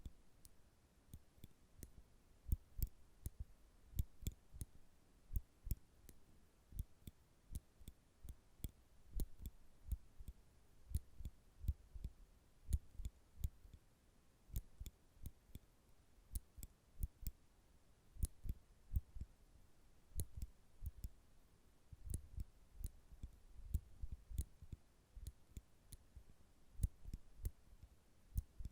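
Nail clippers clicking and snapping shut again and again, a few sharp clicks a second at an irregular pace.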